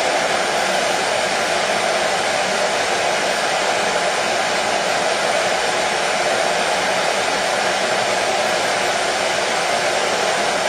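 Hair dryer running steadily: a continuous, even rushing noise that holds the same pitch and level throughout.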